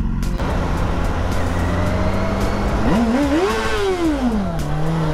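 Motorcycle engine heard from the rider's seat over a steady rush of road noise, blipped once about three seconds in: the pitch rises smoothly, then falls back to a steady run.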